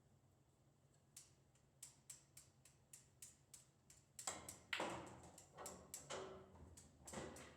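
Pool balls on a pool table: a run of light clicks about three a second, then several louder knocks and rattles from about four seconds in.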